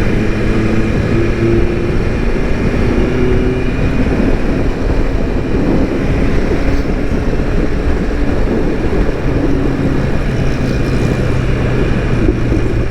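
BMW S1000 RR inline-four motorcycle engine running on the move, under a steady rush of wind noise, its note shifting slightly in pitch.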